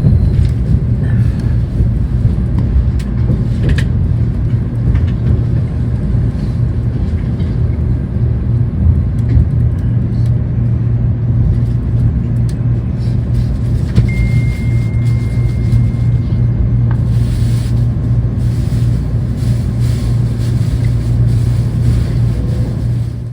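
Steady low rumble and running noise of a Tokaido Shinkansen bullet train at speed, heard from inside the car, with a strong steady low hum under it.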